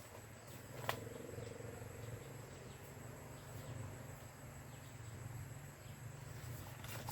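Faint steady insect chirring, with a single sharp click about a second in.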